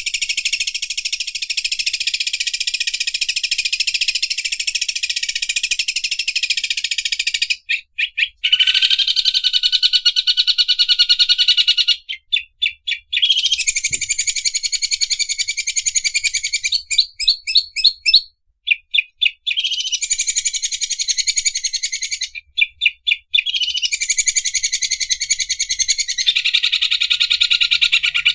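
Greater green leafbird (cucak ijo) singing its 'mesin obras' song, a very fast, buzzy, machine-like rattling trill. It comes in long runs of several seconds, broken by short stuttering breaks, with lower whistled notes under the rattle twice.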